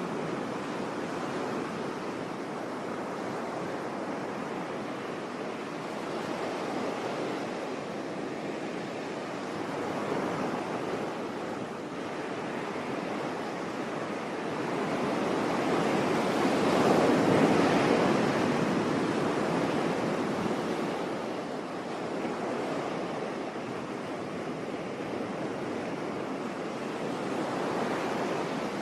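Sea waves washing onto the shore in a steady surf. Partway through, one bigger wave swells, breaks and slowly fades back.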